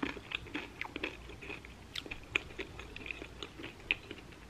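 A person chewing a mouthful of tortilla chip with buffalo chicken dip: irregular soft crunches and mouth clicks.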